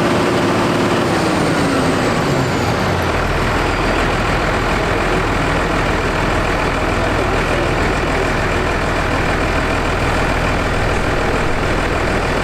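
Case Maxxum 5140 tractor's diesel engine running at high revs on a PTO dynamometer. About a second in, its pitch falls as the load comes on, and from about three seconds it runs steadily under load with a deep low rumble.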